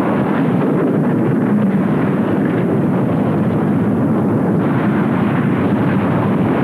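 Volcanic eruption rumbling: a dense, steady low rumble with no separate blasts standing out.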